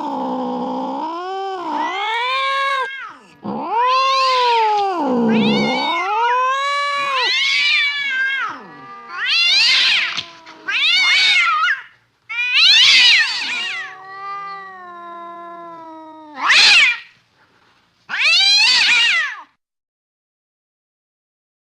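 Domestic cat caterwauling: a run of long, wavering yowls whose pitch swoops down and back up, followed by shorter, higher meowing calls.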